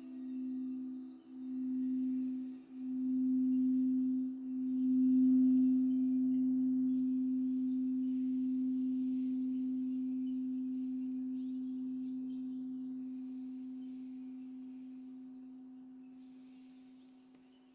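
Singing bowl sounding one steady low tone. It swells in three or four pulses over the first few seconds, then slowly dies away.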